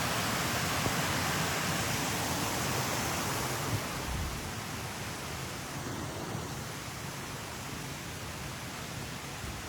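Steady rushing noise with no distinct events, easing slightly about four seconds in.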